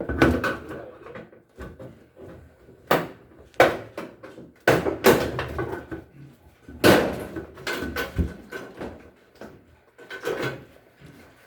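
Irregular knocks and clunks of hard parts and tools being handled during a washing machine repair, the loudest about three, five and seven seconds in.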